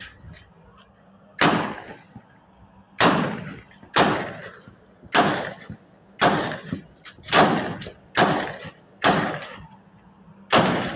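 Gunshots: about ten single shots fired roughly one a second at an uneven pace, two of them close together near the middle, each ringing out briefly.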